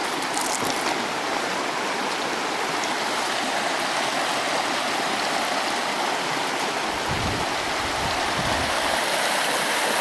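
Stream water rushing steadily, with a brief low rumble about seven to nine seconds in.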